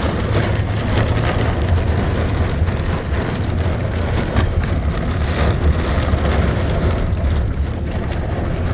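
Inside a moving car: a steady low rumble of engine and tyres, with a rushing hiss over it.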